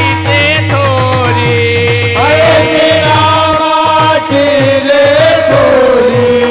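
Devotional kirtan music: a voice sings a long, drawn-out wordless melodic line over steady held drone tones, with drum strokes repeating underneath.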